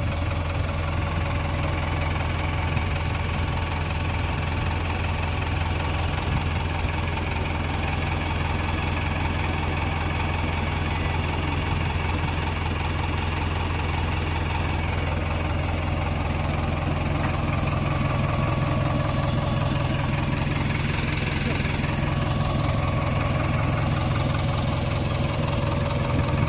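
Heavy diesel engine running steadily at low revs, a little louder in the second half.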